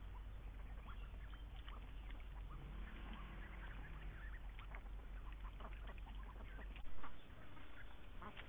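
Indian runner ducks calling, many short scattered quacks and chatters. A single brief loud thump comes about seven seconds in.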